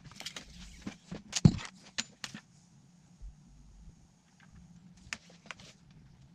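Sharp clicks and light knocks of small hard objects being handled, several close together, the loudest about one and a half seconds in. A faint steady high whine runs from about two seconds in to near five seconds.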